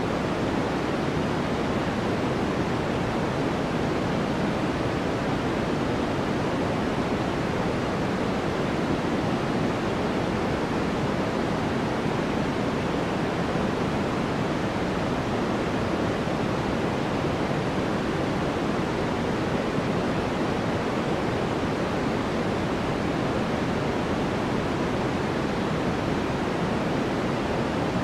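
Steady white-noise track: an even, unchanging hiss, fuller in the low-middle range, with no other events.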